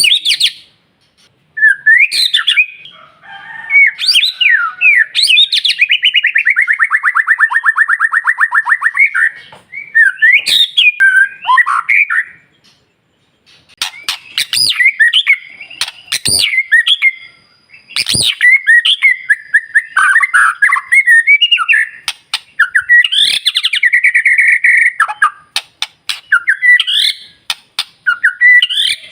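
White-rumped shama (murai batu) singing loud, varied phrases of whistles and chatters separated by short pauses, including a long, rapid trill a few seconds in and sharp ticking notes.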